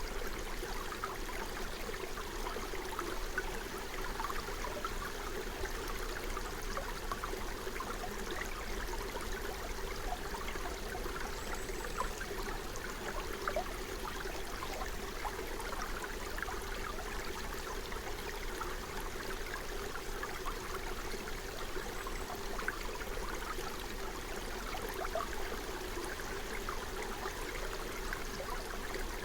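Forest stream flowing steadily: a constant rush of running water full of small bubbling trickles.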